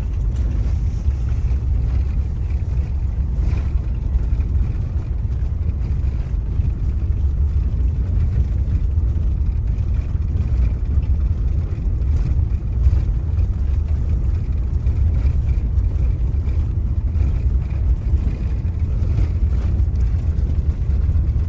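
Car driving along at low speed, heard from inside: a steady low rumble of engine and road noise with a few faint light knocks.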